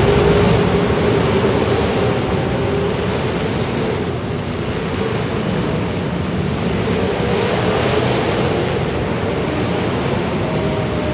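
Demolition derby car engines running hard together, a loud dense steady noise with one engine's wavering tone standing out.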